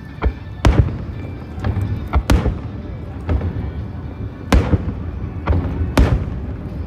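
Aerial fireworks bursting in a string of sharp bangs, each trailing off. The loudest come about a second and a half apart, over music.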